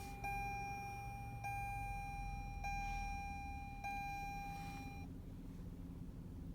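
Car dashboard chime sounding in a steady series, one long tone about every 1.2 seconds, stopping about five seconds in, over the low hum of the 2018 Toyota Camry XSE's 3.5-litre V6 idling just after start-up.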